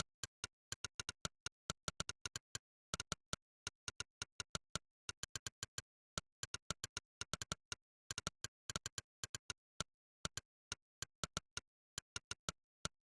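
Monkeytype's "click" keystroke sound effect, one identical sharp click per key typed, at an uneven typing rhythm of several clicks a second with short pauses between bursts of words.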